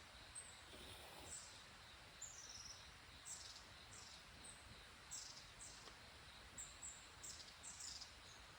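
Quiet wilderness ambience: a faint steady hiss with short, high chirps repeating irregularly, about once a second.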